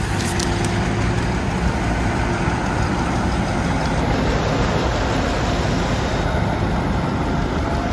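Engines of tractors and cars in the cruise running at low speed, a steady drone.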